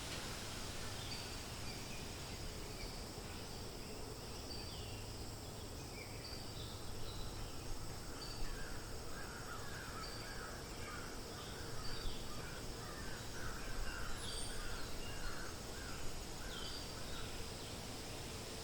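Steady wind rustling through forest leaves, with small birds giving short high chirps throughout. From about six seconds in, another bird calls in a quick run of repeated lower notes for about ten seconds.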